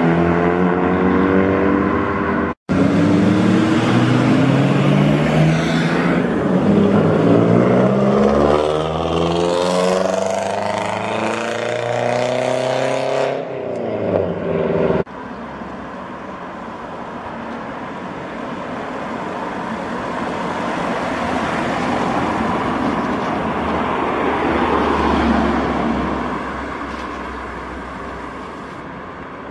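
Modified cars driving away one after another, engines revving as they pull off, the pitch climbing through the gears. The sound breaks off abruptly twice as one car gives way to the next. The last stretch is a quieter car that swells as it passes, then fades.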